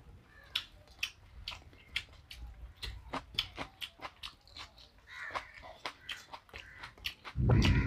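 Close-miked chewing and lip-smacking of a person eating rice by hand, with many sharp wet mouth clicks. Near the end a loud low rumble sets in.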